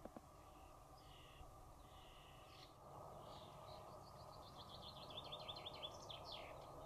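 Faint birdsong: short chirps and then a quick run of repeated notes about five seconds in, over a steady low background hiss.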